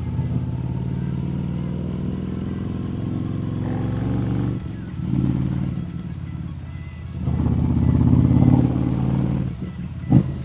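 Harley-Davidson Street Rod 750's liquid-cooled V-twin engine running under way, swelling louder with throttle a few times and easing off between. A short thump near the end.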